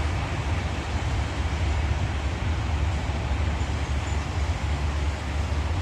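Passenger train of LHB coaches rolling across a railway overpass, a steady low rumble with an even rushing noise above it.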